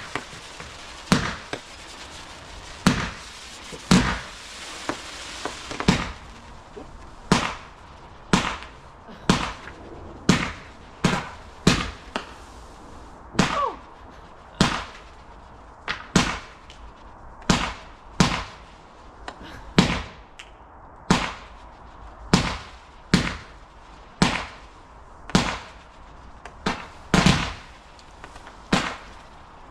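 Fireworks going off in a steady series of sharp bangs, about one a second, each with a short fading tail. A crackling hiss runs under the bangs for the first few seconds.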